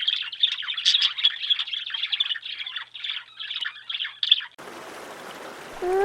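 A dense chatter of many small birds chirping rapidly. About four and a half seconds in it cuts off abruptly, giving way to a steady trickle of running water. Near the end a drawn-out animal call rises and falls in pitch.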